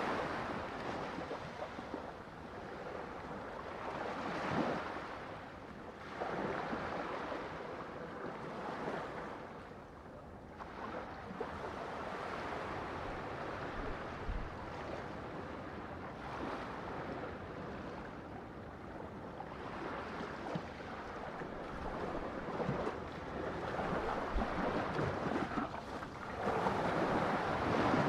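Ocean waves breaking and washing on a shore, the surf swelling and ebbing every few seconds, with a louder wave near the end.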